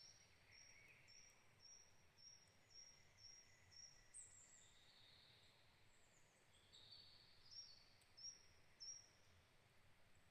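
Faint wild birdsong. A bird repeats a short, high note about twice a second for the first four seconds, then other high chirps and trills follow, with three louder high notes near the end.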